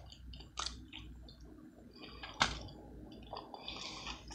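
Close-up wet chewing and mouth clicks from a person eating a brisket taco, with scattered sharp smacks; the loudest comes about two and a half seconds in.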